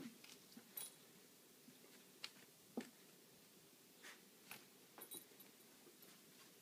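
Dogs' paws and claws tapping and scuffling on the floor as they play: scattered light taps and a few soft thumps, with a short cluster of taps about five seconds in.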